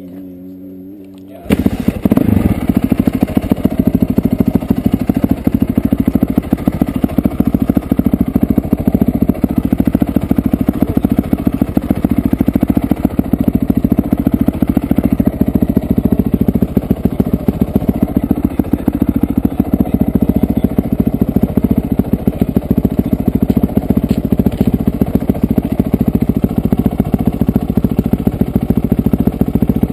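Honda CRF450R dirt bike's single-cylinder four-stroke engine running close to the microphone, a rapid, steady run of firing pulses that starts abruptly about a second and a half in.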